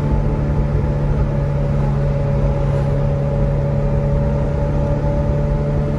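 Ferrari 488 Pista's twin-turbo V8 running at a steady engine speed while cruising, a constant drone with road rumble heard from inside the cabin.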